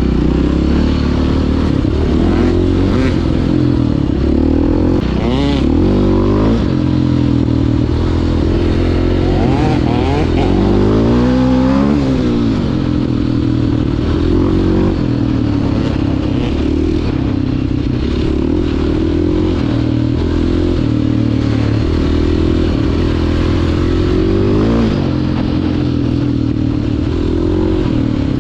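Four-stroke single-cylinder engine of a 2009 KTM 530 EXC enduro dirt bike under way on a trail, its revs rising and falling over and over as the rider works the throttle and gears.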